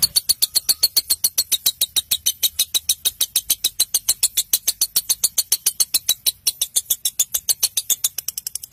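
A bird's fast, even chattering series of sharp high chirps, about eight a second, coming a little faster and softer near the end.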